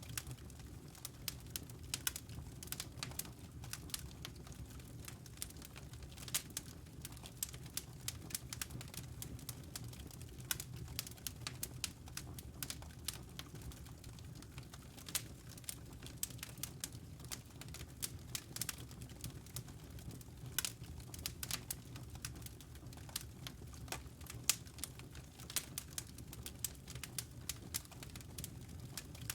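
Wood logs burning in a fireplace, crackling with many irregular sharp pops and snaps over a steady low rumble of the flames.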